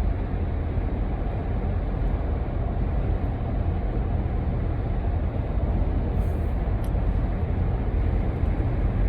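Steady low rumble of road and engine noise, as heard inside a moving vehicle.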